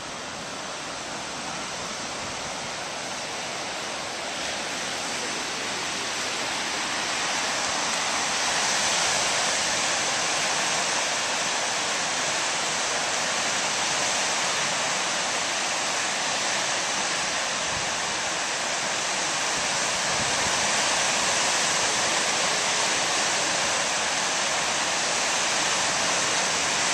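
Steady rush of flowing river water, growing louder over the first several seconds and then holding steady.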